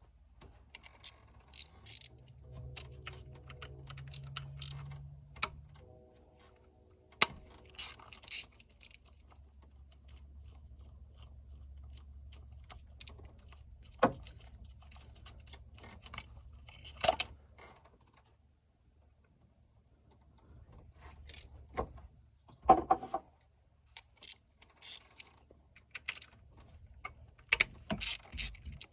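Metal hand tools clicking and clinking in scattered short strikes, with a faint steady low hum underneath, during work on the engine's ignition coils and spark plugs.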